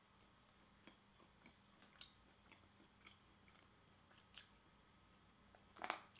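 Quiet chewing of a person eating, with small scattered mouth clicks. Near the end, a louder short scrape as a metal fork digs into a plastic takeout tray.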